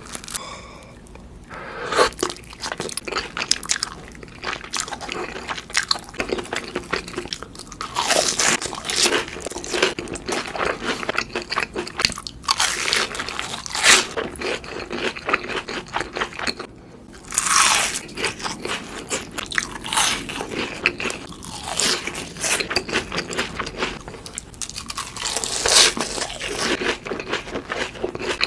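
Close-miked mukbang eating sounds: crunchy bites with dense crackling chewing between them, a louder bite every few seconds.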